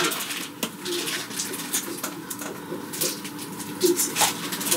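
Running noise inside a moving high-speed train: a steady rush with irregular clicks and rattles.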